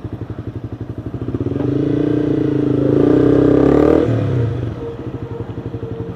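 Motorcycle engine idling with an even, rhythmic pulse, revving up briefly from about a second and a half in and dropping back to idle at about four seconds.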